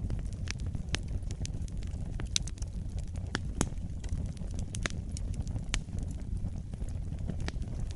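Fire burning in a fireplace: a steady low rumble with frequent, irregular sharp crackles and pops, a few of them louder than the rest.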